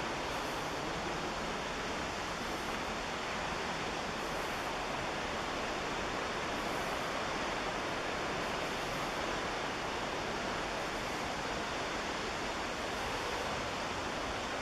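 Steady rush of white water from the McKenzie River, a fast mountain river, heard close by.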